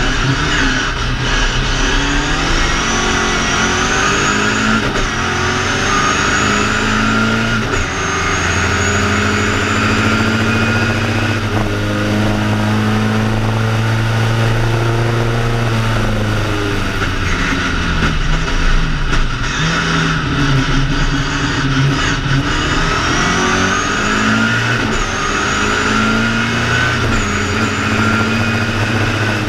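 BMW 2002 ti race car's four-cylinder engine heard from inside the cabin at full throttle, rising in pitch through the gears with a break at each upshift. It holds steady at high revs for several seconds in the middle, drops off, then climbs through the gears again.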